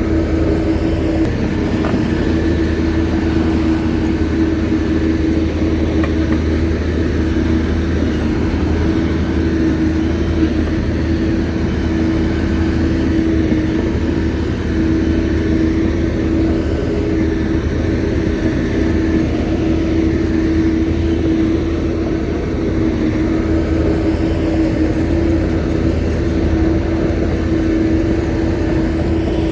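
Shantui bulldozer's diesel engine running steadily under work, a constant low rumble with a steady droning tone over it.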